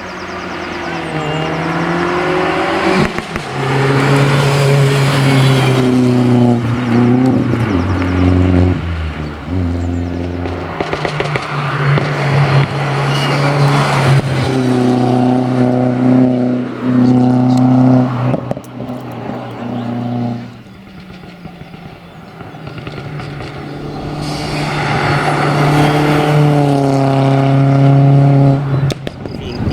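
Seat Leon hillclimb race car's engine at full throttle, revving up and upshifting several times as it passes. It fades away about two-thirds of the way through, then comes back in, climbing hard again.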